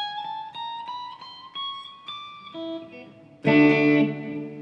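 Chibson electric guitar played one note at a time up the neck, fret by fret, each note a step higher, to check the frets for buzzing during setup. A few lower notes follow, then a loud strummed chord about three and a half seconds in that rings on.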